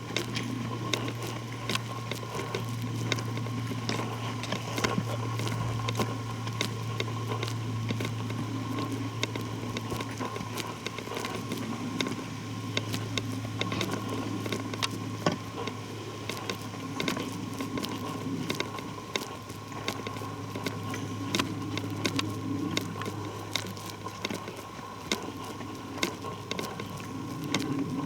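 Footsteps on the forest floor, with frequent small crackles and clicks of leaves and twigs underfoot and soft thuds about once a second, over a steady low hum.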